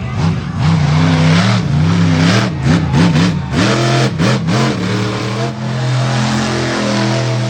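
Monster truck engine revving hard, its pitch swinging up and down several times in quick succession, then running steadily at a held pitch for the last few seconds.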